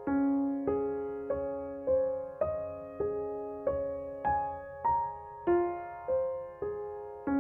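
Slow, gentle background piano music: single notes and soft chords struck about one and a half times a second, each ringing and fading before the next.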